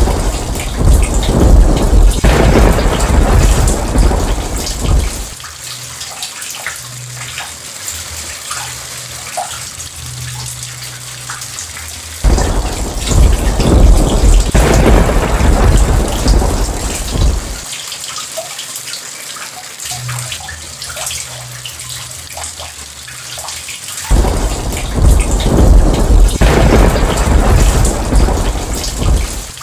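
Steady heavy rain with three rolls of thunder. Each rumble starts suddenly and lasts about five seconds, and they come about every twelve seconds.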